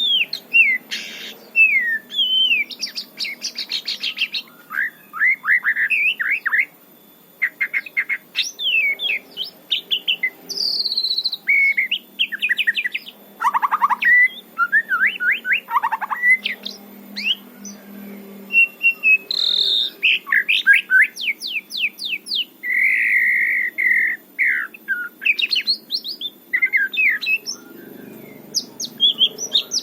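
White-rumped shama singing in the wild: a varied run of clear whistled phrases, sliding notes and fast rattling trills, one phrase after another with short pauses.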